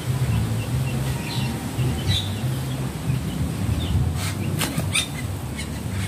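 Black birds at a fruiting papaya tree: scattered short chirps and wing flaps, with a few sharp flutters about four to five seconds in, over a steady low rumble.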